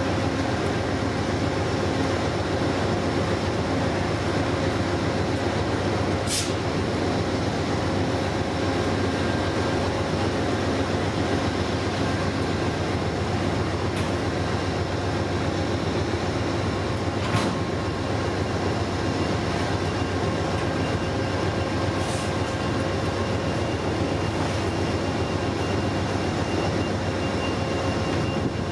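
A train running steadily: an even rumble with faint steady tones and a few sharp clicks, and a faint high whine coming in near the end.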